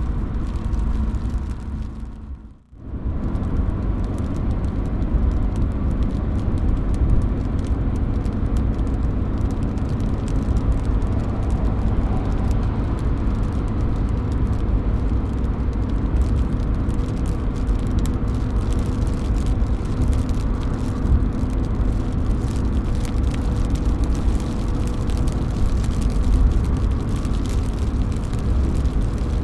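Steady rain with drops falling from a roof, a dense low rumble sprinkled with many fine drip ticks. The sound cuts out briefly about two and a half seconds in, then resumes.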